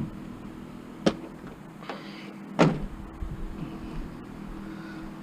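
Two sharp clunks, the louder one about two and a half seconds in, as scrap is handled and loaded, over the steady hum of an idling vehicle engine.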